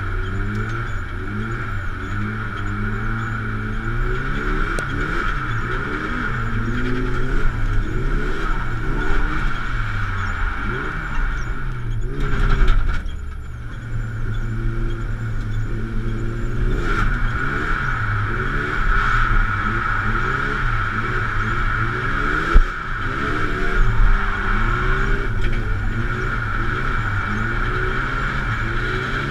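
Drift car's engine revving up and down under hard throttle and shifting, heard from inside the cabin, with a steady high whine over it. There is a short lift in revs about 13 seconds in and a single sharp knock about two-thirds of the way through.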